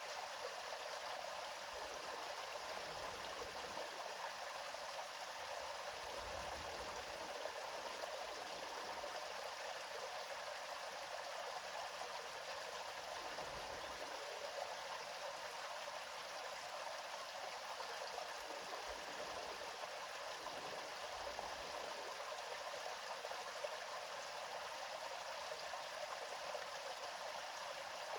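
River water flowing, a steady, even rush with almost no low rumble.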